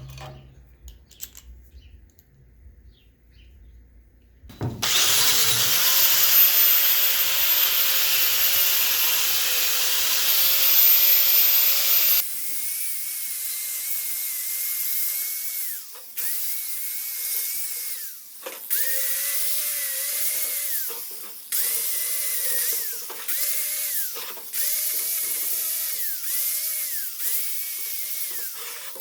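Handheld electric power tool motor, running at full speed for about seven seconds starting about five seconds in. It is then triggered in a series of short bursts, spinning up and winding down each time.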